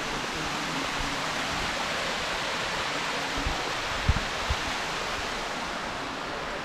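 Waterfall's falling water rushing steadily, with a couple of low thuds about four seconds in.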